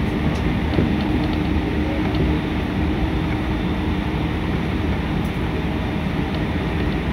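JR train running between stations, heard from inside the carriage: a steady rumble of wheels on track, with a low steady hum that fades out about four seconds in.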